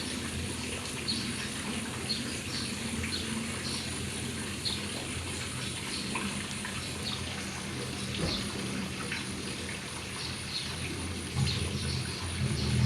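Outdoor ambience: a steady low hum and a thin high steady tone, with short high chirps like birds every second or so. A low drone grows louder near the end.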